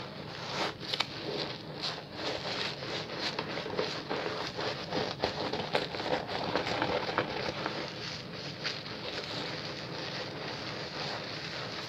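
Bar soap being lathered fast between wet hands, a squishing, crackling froth with many small wet clicks. It eases into a steadier, softer foamy hiss after about eight seconds.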